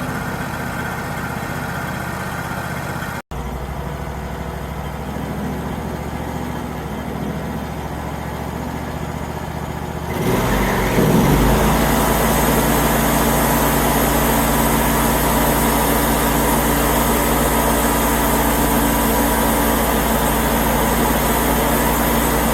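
Wood-Mizer LT35 portable bandsaw mill running steadily, with a brief dropout about three seconds in. About ten seconds in it jumps louder and harsher, with a strong hiss on top of the hum.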